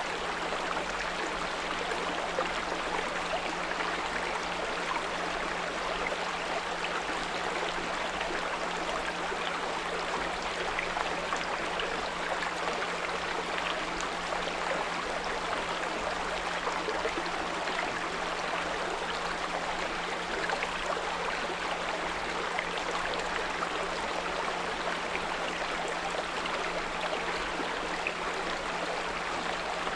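A small brook running and trickling steadily, with a steady 174 Hz pure tone humming underneath.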